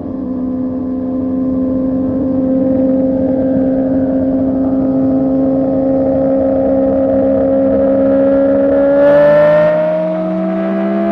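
Motorcycle engine with a loud aftermarket exhaust, holding a steady, slowly rising note at highway speed, then revving up faster about nine seconds in as the bike accelerates.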